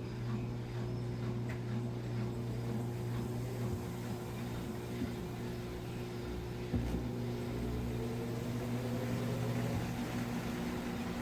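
Midea Wave-Agitator top-load washing machine running with a steady motor hum. About seven seconds in there is a knock, and then a whine that slowly rises in pitch.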